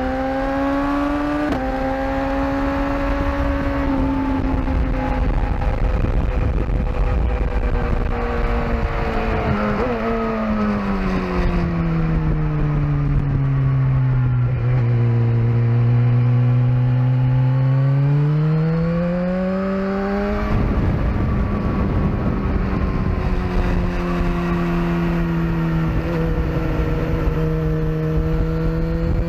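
Sportbike engine under way on a racetrack, with wind rush underneath. Its revs hold, then fall slowly to a low point and climb again, break off with a gear change about twenty seconds in, then hold steady and begin to rise near the end.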